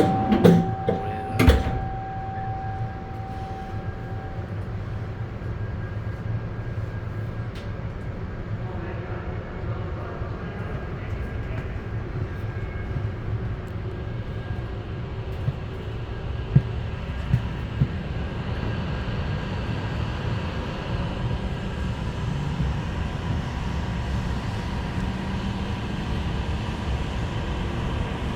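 Inside the cabin of an H5-series Shinkansen: two knocks and a steady tone that fades out over the first few seconds, then the train's steady low running rumble with a faint steady whine.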